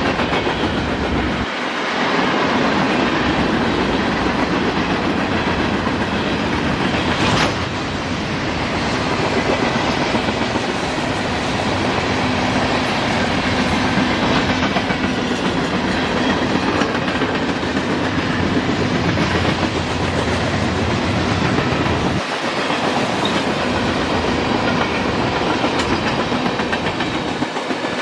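Freight train cars rolling past on the rails, a steady, loud noise of wheels and car bodies, with one sharp clank about seven seconds in.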